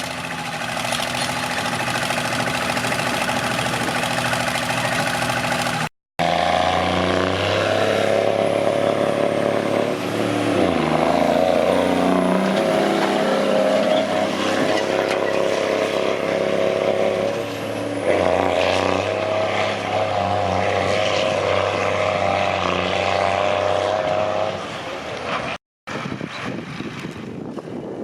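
Tractor-pull tractor engine running loud under load, its pitch dipping and climbing again about ten seconds in and once more later on. Two brief dead-silent breaks cut into the sound.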